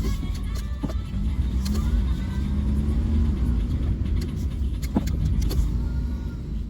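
Honda Vamos kei van running: a steady low engine and road rumble whose pitch rises briefly about a second and a half in, with a few light clicks.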